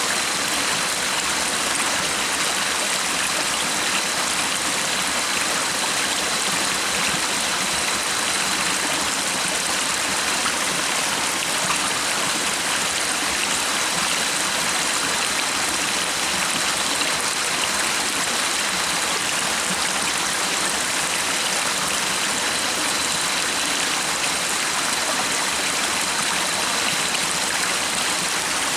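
Stream water running steadily, an even unbroken rush and babble, with a faint steady high tone beneath it.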